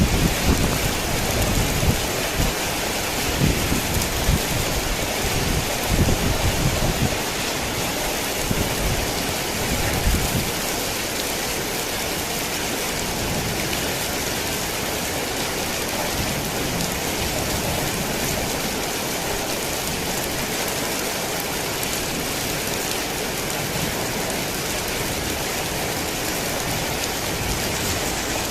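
Heavy rain falling steadily, a dense even hiss. Low rumbles of thunder swell and fade during roughly the first ten seconds, then the rain goes on alone.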